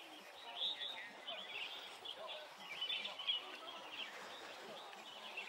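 Faint birds chirping in quick, scattered calls, over a low background murmur of distant voices.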